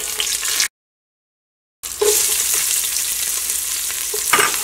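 Hot ghee sizzling in a stainless steel pot, first around whole spices and then around chopped onion, stirred with a wooden spatula. The sound cuts out completely for about a second shortly after the start, and a single knock comes near the end.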